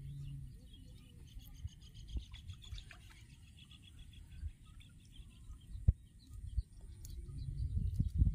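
A bird calling in a rapid run of high chirps, many to the second, that lasts for about the first four seconds. Underneath is a low rumble, with a few sharp knocks near the end.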